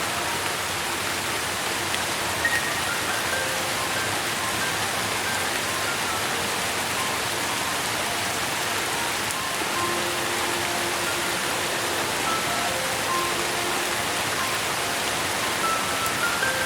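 Steady rain hiss with soft, sparse music on top: single sustained notes at different pitches come and go every second or so.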